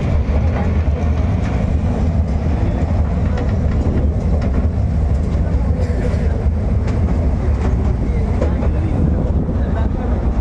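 Miniature ride train running along its track, heard from on board: a steady low rumble of the carriage with faint clicks from the wheels.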